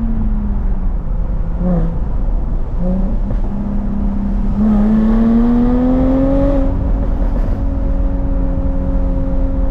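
Jaguar F-Type S supercharged 3.0-litre V6 engine driving. The note sinks at first, then after a shift climbs through the revs, loudest around five to six seconds in. It drops back near seven seconds and settles into a steady cruising note.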